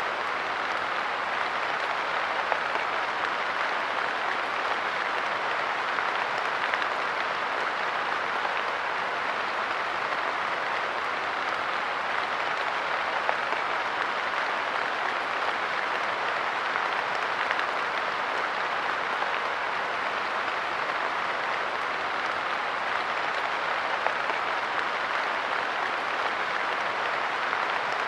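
Light rain falling steadily on a park bench: an even hiss of drops, with an occasional sharper drop hit standing out.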